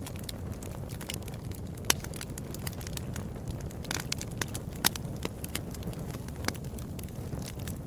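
Wood fire crackling in a fireplace: a steady low rumble of burning with many sharp snaps and pops, the loudest about two seconds and five seconds in.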